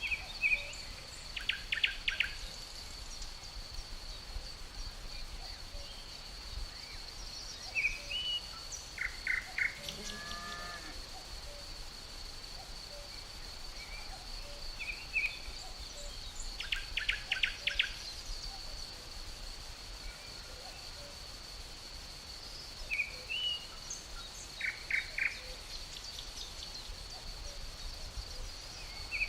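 Natural outdoor ambience: a steady high-pitched insect drone with birds calling over it, in short chirps and a repeated phrase of quick notes that comes back about every seven to eight seconds.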